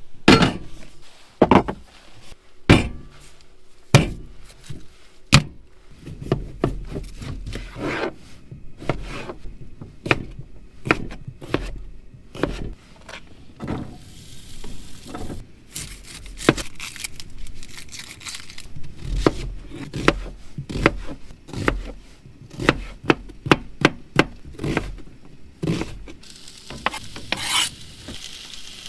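Camp cooking: a long series of sharp knocks and clatters of utensils and cookware, with food beginning to sizzle in a pan near the end.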